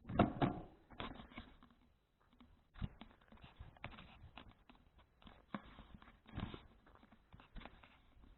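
Faint, irregular knocks and rattles from a folding bicycle being ridden, picked up by an action camera mounted on it, with a louder bump at the very start.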